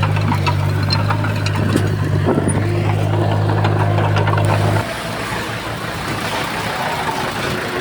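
Heavy diesel earthmoving machinery running, with a deep steady engine hum and scattered clanks. About five seconds in the deep hum cuts off abruptly, and a lighter, even engine noise carries on.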